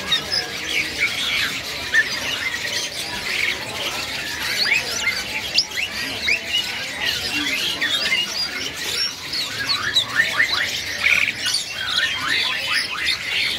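Many caged birds chirping and squawking at once: a dense, overlapping chatter of short, quick whistles and squeaks.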